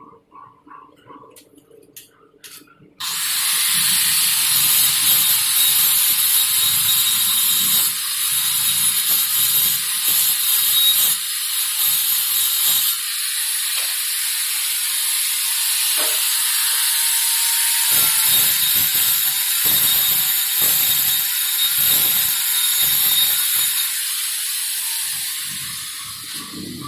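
Stick-welding arc from an E6011 electrode laying the root pass on a carbon steel pipe. A few faint ticks, then the arc catches about three seconds in and crackles and hisses steadily, tapering off near the end.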